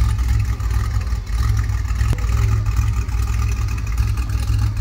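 A car running, with a steady, heavy low rumble.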